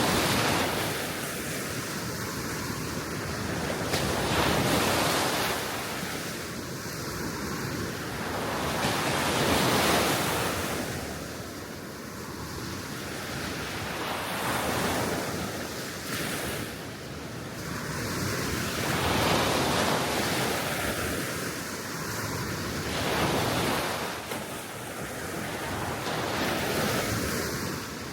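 Small waves breaking and washing onto the shore of a calm sea, each swell of surf rising and falling about every four to five seconds, with wind.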